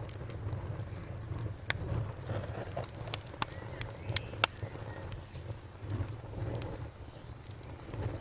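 Campfire crackling, with several sharp pops in the middle seconds, over a low steady rumble. Crickets chirp steadily and faintly behind it.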